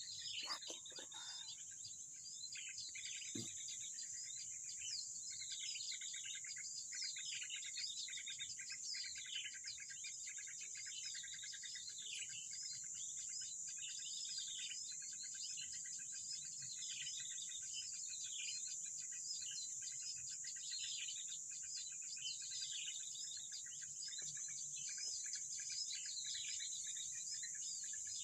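Forest birds calling steadily with many short, repeated high chirps that slide downward in pitch, over a constant high-pitched insect drone.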